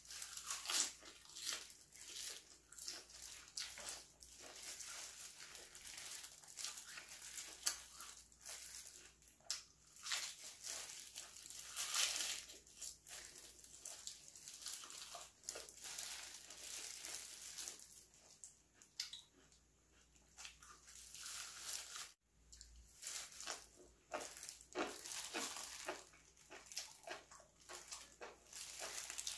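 Close-miked chewing of a crisp lettuce wrap, with irregular crunching and crackling bites.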